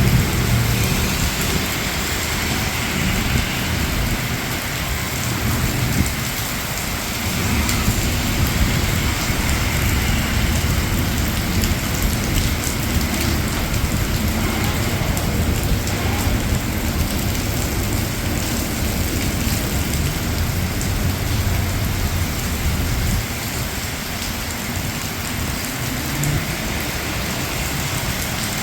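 Steady rain falling, with a low rumble underneath that comes and goes. The rumble fits distant thunder or passing traffic.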